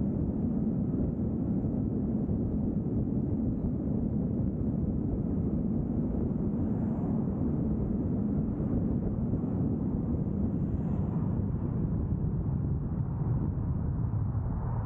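Steady low rumble of a vehicle driving along the road: tyre and engine noise, even and unchanging.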